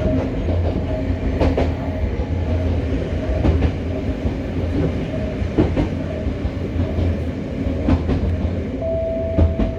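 Interior running noise of a Hokuriku Railroad 03 series electric train, heard from an unpowered trailer car so no motor or inverter sound: a steady low rumble with occasional clacks of the wheels over rail joints. A brief steady whine comes in near the end.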